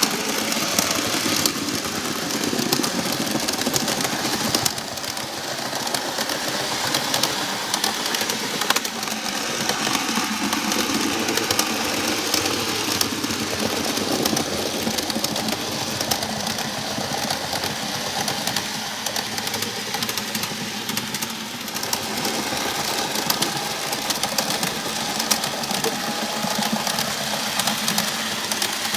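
N-gauge model train running on its track: a steady whirring from the small motor, with fine rapid clicking of the wheels over the rails. The freshly serviced powered car is being test-run.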